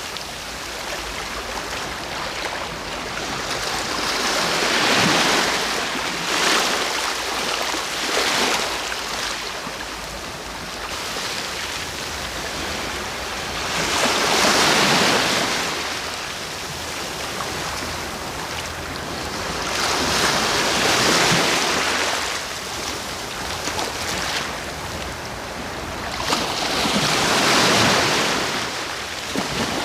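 Sea waves breaking and washing ashore, each surge swelling and fading, with a louder wave every six seconds or so.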